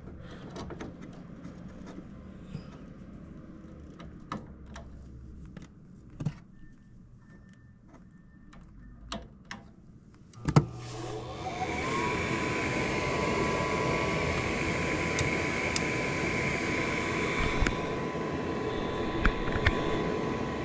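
Gas furnace starting on a call for heat: a few light clicks, then a sharp click about ten seconds in as a motor, likely the draft inducer, spins up with a rising whine and settles into a steady whirring run.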